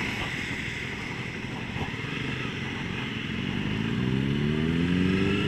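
Honda CBR250R engine under way, its revs rising from about halfway through as the bike accelerates, over a steady rush of wind and tyre hiss on the wet road.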